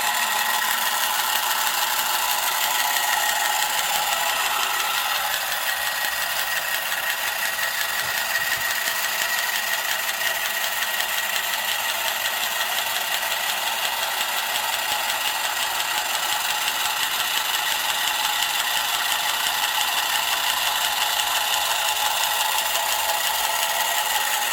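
Marx Moon Scout tin toy helicopter's motor and gear train running steadily. The owner guesses the gears inside are wearing out and not meshing as well as they should.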